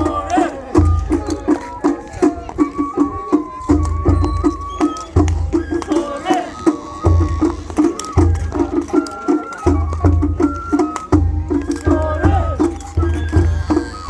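Japanese festival float music (matsuri-bayashi): a high held melody line moving in steps over a quick, even drum pattern, with deeper drum beats coming in stretches.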